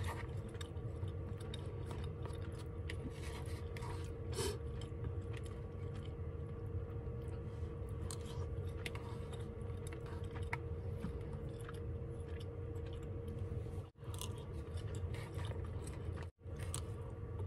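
Close-up chewing of fried rice, with small clicks and scrapes of a plastic spoon in a paper bowl, over the steady hum of the van's heater running.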